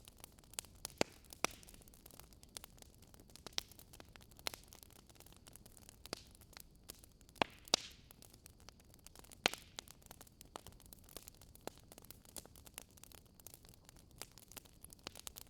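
Wood fire crackling: irregular sharp pops and snaps over a faint steady hiss, with a few louder pops scattered through.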